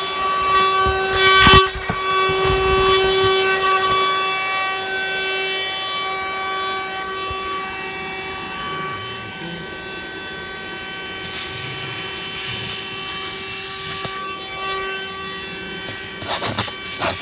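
Handheld 12-volt car vacuum with a crevice tool running, its motor giving a steady high whine. There is a sharp knock about a second and a half in, a rush of hiss later on, and rapid scraping and rattling near the end.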